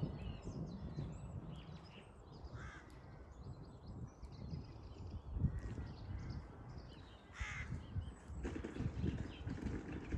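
Birds calling and chirping in the dawn chorus, with two louder harsh calls, one a little under 3 seconds in and another about 7.5 seconds in. Wind rumbles unevenly on the microphone underneath.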